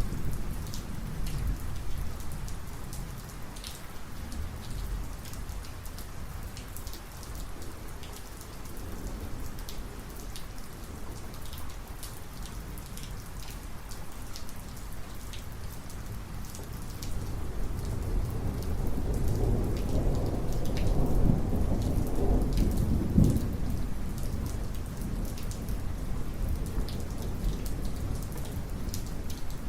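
Heavy rain falling steadily, with sharp drips and drop impacts throughout, and a long roll of thunder that swells about two-thirds of the way in, peaks for a few seconds and fades away.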